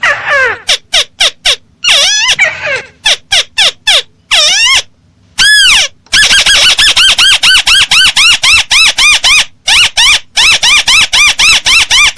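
Lure recording of a crake (burung tikusan) call, loud and clear: a run of sharply falling whistled notes, then from about six seconds in a fast, even series of short rising-and-falling notes, about five a second.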